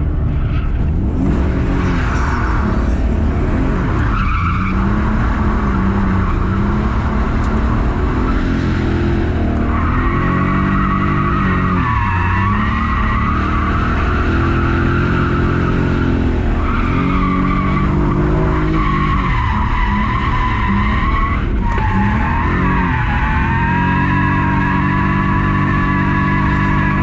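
BMW E46 330i's inline-six revving up and down repeatedly through a drift run, with the rear tyres squealing as the car slides.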